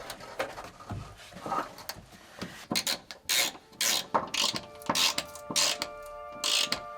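Ratchet wrench clicking in short runs with scraping metal noises, as exhaust fasteners are done up. Background music comes in near the end.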